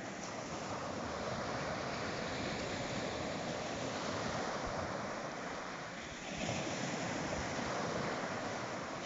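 Sea waves breaking and washing on the shore, a steady rush of surf, with a fresh wave surging in about two-thirds of the way through. Some wind noise on the microphone.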